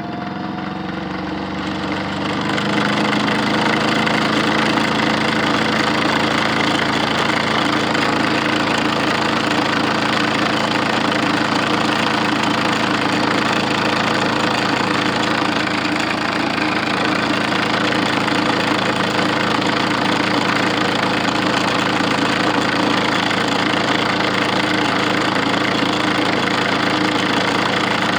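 Modified Miele W1 toy washing machine running: its small electric motor rises in speed over the first couple of seconds, then hums steadily at a constant speed with a rattling vibration.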